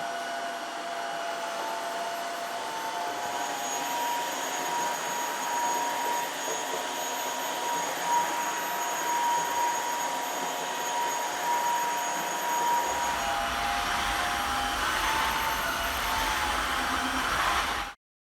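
Dreame H11 Max cordless wet-dry floor cleaner running: a steady motor whine over the rush of suction. A low rumble joins about two-thirds of the way through, and the sound cuts off abruptly near the end.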